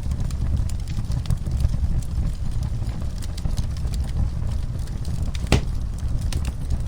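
Wood fire crackling in a fireplace: a steady low rumble of flames with many small pops and one sharper, louder pop about five and a half seconds in.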